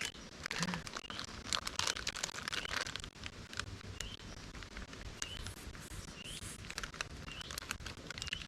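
Crinkling and handling rustles for the first few seconds, then a bird giving short chirps about once a second.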